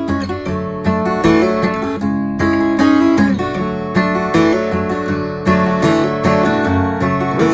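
Acoustic guitar strumming chords in a steady rhythm, changing chord every second or so, in a progression built on E minor.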